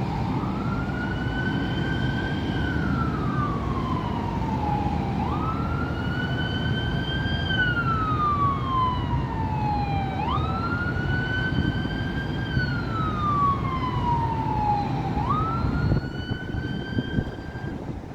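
Emergency vehicle siren wailing over steady city traffic rumble: each cycle jumps up quickly, then falls slowly, repeating about every five seconds, and the siren stops near the end.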